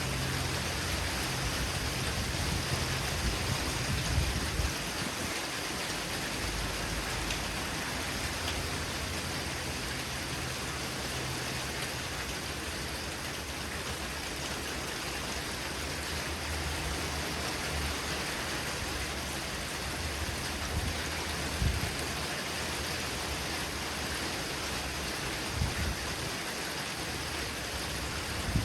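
Heavy rain falling steadily in a thunderstorm, an even hiss throughout. A low thunder rumble fades out about four seconds in, and a few short low thumps come near the end.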